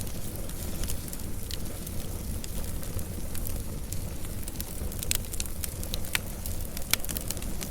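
Wood fire burning with a low steady rumble and irregular sharp crackles and pops, a few bunched near the end.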